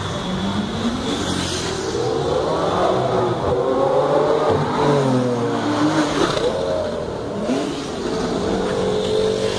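A car engine revving, its pitch climbing and falling several times, then holding fairly steady near the end, over street traffic noise.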